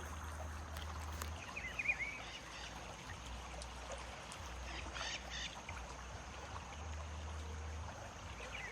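Steady rushing of a river in flood, with a bird giving a few short chirps about two seconds in.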